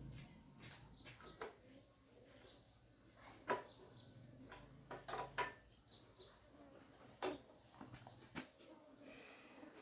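Faint, scattered clicks and knocks of metal tools and small engine parts being handled. The sharpest comes about three and a half seconds in, a short cluster follows around five seconds, and there are single clicks near seven and eight seconds.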